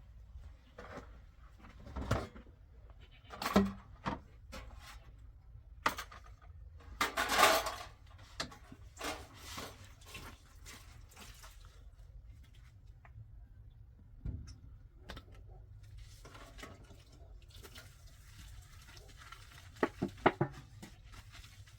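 Intermittent clatter and knocks of objects being handled and set down, with a louder scraping burst lasting about a second partway through and a quick run of sharp clicks near the end.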